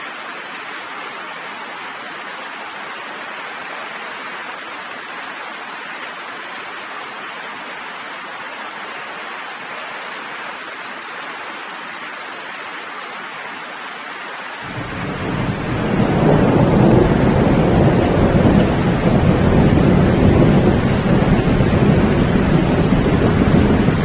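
Steady rain hissing, then about two-thirds of the way through a long low rumble of thunder comes in. It swells over a second or so and keeps rolling under the rain.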